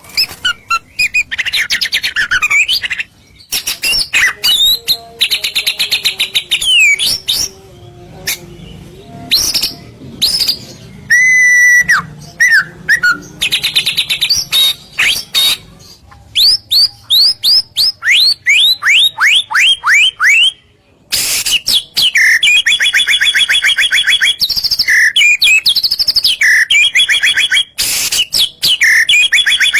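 White-rumped shama (murai batu) singing a loud, varied song of whistles and trills: a run of quickly repeated notes sliding down in pitch past the middle, then a long rapid trill near the end.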